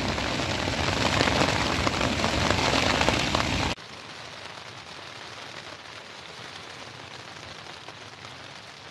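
Heavy rain mixed with hail, a dense hiss with scattered sharp clicks of hailstones striking. About four seconds in it cuts off abruptly to a much quieter, steady hiss of rain.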